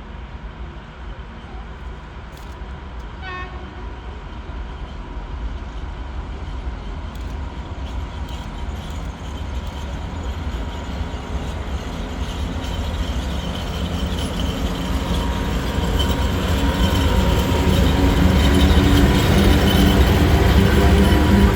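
A train approaching along the track, its low rumble growing steadily louder. A short high tone sounds about three seconds in.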